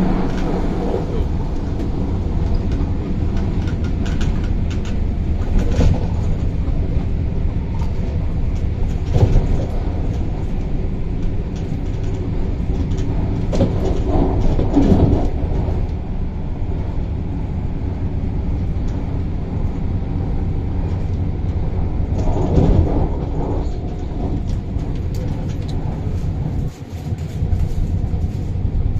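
MTR Tung Chung Line CAF electric train running along the line, heard from inside the car: a steady rumble of wheels and motors, with a few louder knocks and rattles from the track along the way.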